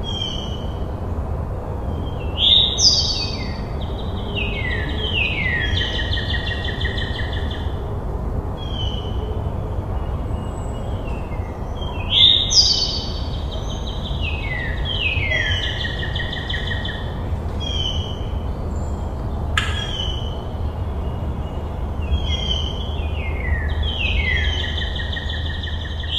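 Bird song: a phrase of descending pitched notes repeated about every ten seconds, over a steady low rumble, with a single click about three-quarters of the way through.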